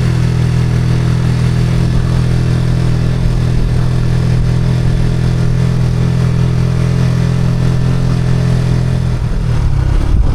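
Motorcycle engine running at a steady cruise while riding, with wind and road noise over it. The engine note dips briefly near the end.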